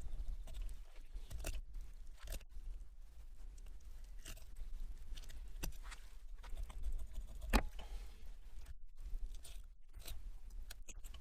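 A big knife filleting a rockfish, with irregular crunching and scraping as the blade works through the fish, and one sharper knock about seven and a half seconds in.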